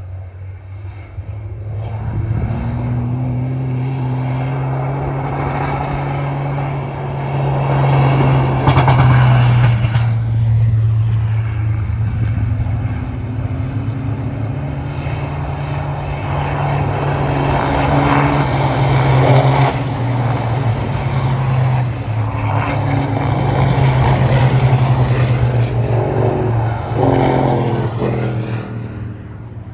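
Racing truck diesel engines running at a steady pitch in a continuous drone, swelling louder as trucks pass, about nine, eighteen and twenty-five seconds in.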